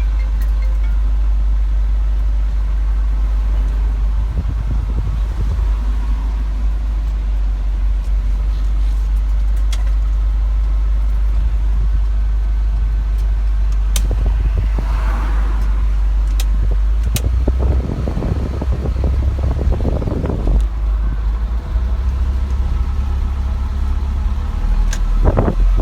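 Engine of a 2005 Isuzu box truck running with a steady low drone. The drone shifts about two-thirds of the way through, and a few light clicks and knocks come over it.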